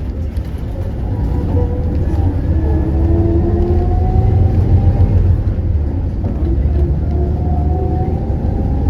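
Hyundai Universe Elegance CNG bus engine running under load, a deep rumble that grows louder over the first few seconds and then holds steady, with faint rising and falling whines above it.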